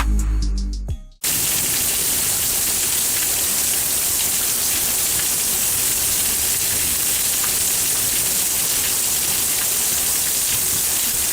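Heavy storm rain pouring, a steady, even hiss that starts about a second in as a burst of music cuts off.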